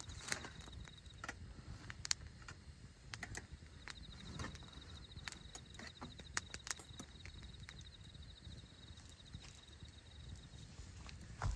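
Wood campfire crackling, with irregular sharp pops, the loudest near the start and at the very end. A cricket trills in a fast, even pulse through much of it, pausing for a few seconds after the first second.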